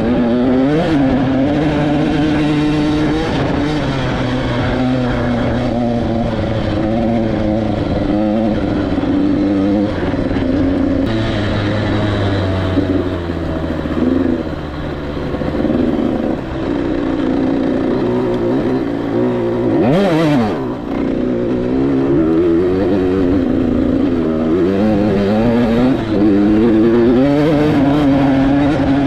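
KTM 85SX 85cc single-cylinder two-stroke dirt bike engine running under way, its pitch rising and falling as the throttle is opened and closed. About twenty seconds in, the revs drop sharply and climb straight back up.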